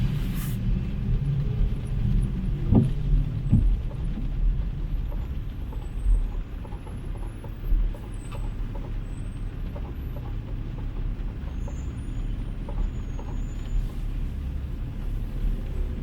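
City street traffic: a steady low rumble of cars and heavier vehicles driving past, strongest in the first few seconds.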